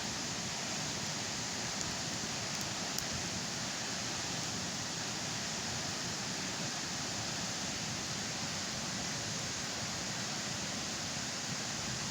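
Steady rushing of flowing water, an even noise without pauses, with a couple of faint ticks about three seconds in.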